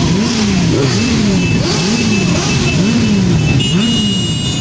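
Motorcycle engine revved over and over in regular blips, its pitch rising and falling about every 0.7 seconds, over the dense running noise of many other motorcycles. A higher steady tone joins in near the end.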